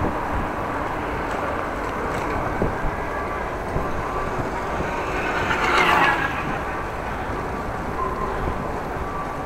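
Wind buffeting the microphone of a camera on a moving bicycle, mixed with rolling road noise. A brief louder hiss swells and fades about six seconds in.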